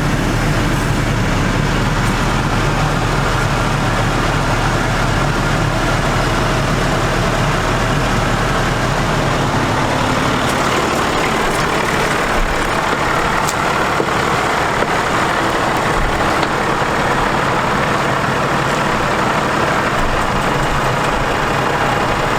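Diesel truck engine, the International DT466, running steadily. About halfway through the low rumble eases and a higher rushing noise grows.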